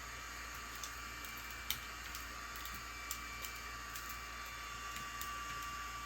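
A few faint, sharp little clicks, scattered and irregular, from small tools and plastic phone parts being handled while a smartphone is taken apart. A steady low hiss runs underneath.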